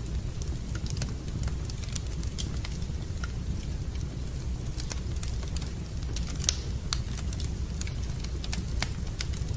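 Wood fire in a fireplace crackling: irregular sharp pops over a steady low rumble, one louder pop about six and a half seconds in.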